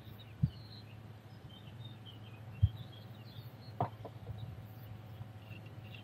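Faint bird chirps scattered over a low steady hum, with three soft knocks spread through the first four seconds.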